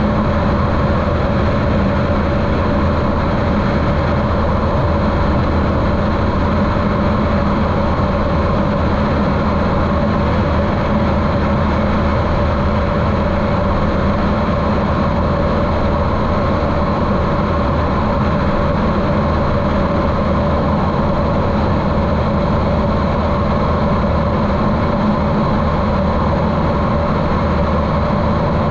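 The Continental O-200 four-cylinder engine and propeller of a Cessna 150L running steadily in flight, muffled because the camera sits inside its waterproof case.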